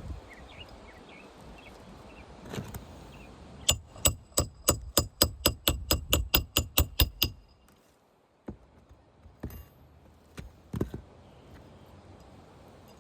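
Hammer striking metal in a rapid run of about fifteen ringing blows, four to five a second, during work on asphalt roof shingles, then stopping suddenly; a few single knocks follow later.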